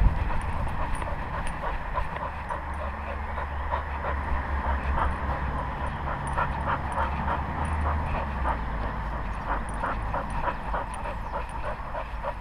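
A dog heard close up from a camera strapped to its body: short, quick, irregular breathy sounds over a steady low rumble of the camera moving with it.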